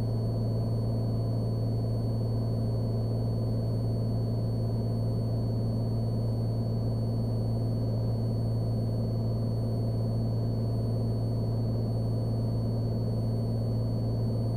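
Cessna Skylane's single piston engine and propeller droning steadily in the cabin, with a thin, steady high-pitched whine over it.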